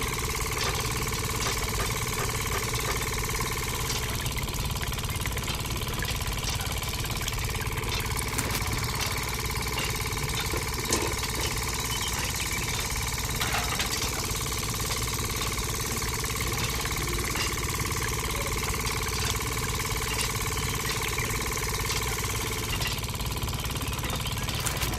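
A small motor running steadily, with a steady whine above a fine, rapid pulsing.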